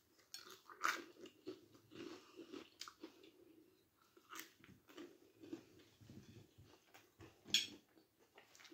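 A person biting and chewing a piece of crusty garlic bread close to the microphone: repeated small crunches and wet mouth sounds. One louder, sharper click comes near the end.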